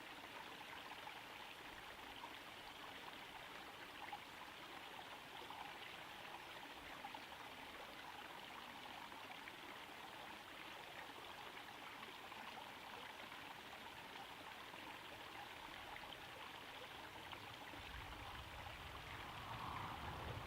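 Small garden pond waterfall trickling and splashing steadily into the pond.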